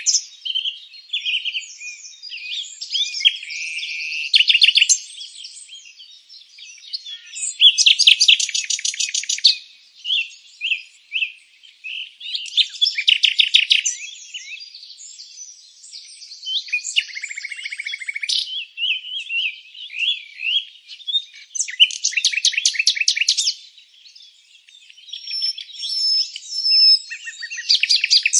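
Several songbirds singing together: short chirps and whistled notes, broken every few seconds by fast trills of rapidly repeated notes.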